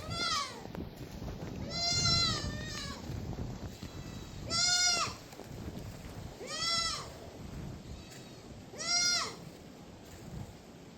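A goat bleating five times, each call a short arched cry, about one every two seconds.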